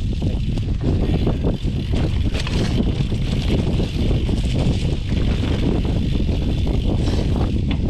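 Wind buffeting the microphone while a Canyon Inflite SL 7 cyclocross bike is ridden over rough trail, with frequent irregular knocks and rattles from the bumps.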